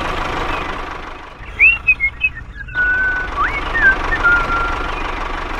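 Steady low engine-like rumble of a toy tractor driving, thinning out about a second in and then coming back. Over it, short whistled notes rise and fall in pitch, in two groups. These notes are the loudest sounds.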